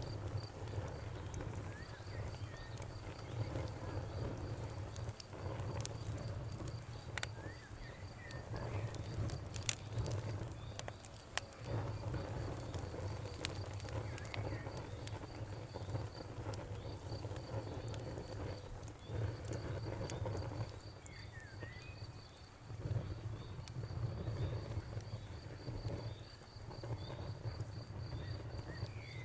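Wood campfire burning with a low steady rumble and scattered sharp crackles and pops, while a cricket chirps in a fast, steady pulse and a bird gives a few short chirps.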